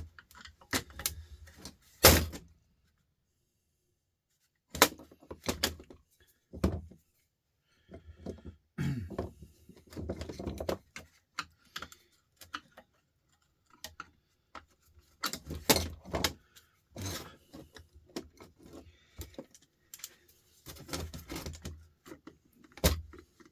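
Handling clatter of hand tools and a power sander being taken apart, with a screwdriver worked at screws that won't turn: scattered clicks and sharp knocks with quiet gaps, the loudest knock about two seconds in.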